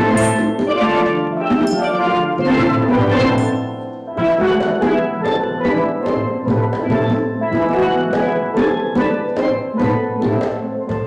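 A steel drum band plays a piece, with many pitched pan notes struck in quick succession. There is a short lull about four seconds in.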